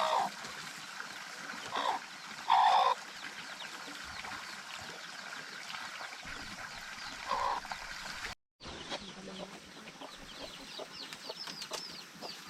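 Chickens clucking, with a loud call about two and a half seconds in. Many short, high chirps follow in the second half. The sound drops out completely for a moment a little past the middle.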